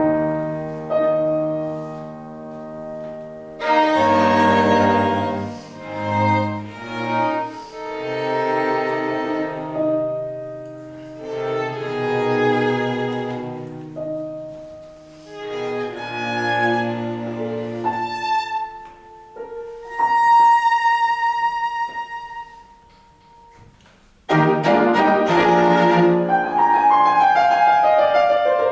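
Piano quartet (piano with bowed strings: violin, viola and cello) playing classical chamber music in phrases. It thins to a soft held note about twenty-two seconds in, then the full ensemble comes in loudly just after.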